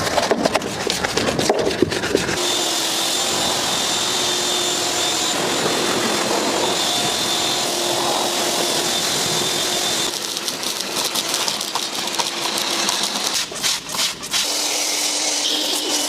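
A motor-driven machine running steadily with a high whine, its sound changing about ten seconds in.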